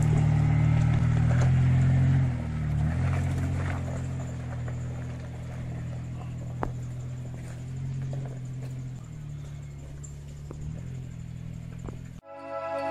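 Mitsubishi Pajero V6 3000 4x4 driving past and pulling away up a rough stony track. Its engine note is loudest at first, drops after about two seconds and stays lower as it moves off.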